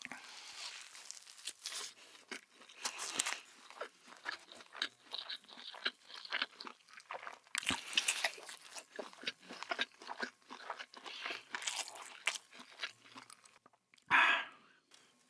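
Crunchy fried food bitten and chewed close to the microphone: a continuous run of sharp, crackling crunches. A brief, louder burst of noise comes near the end.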